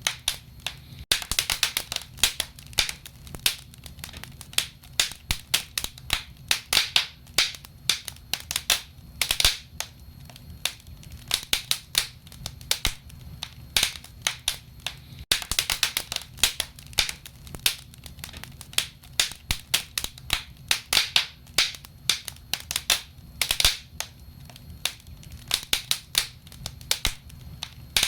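Wood fire in a fireplace crackling and popping: many irregular sharp snaps, some in quick clusters, over a low steady rumble of the flames.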